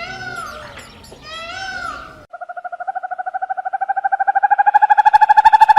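Animal calls: two short calls that rise and fall in pitch, then an abrupt switch about two seconds in to a different call, a rapid pulsing trill on a steady pitch that grows steadily louder.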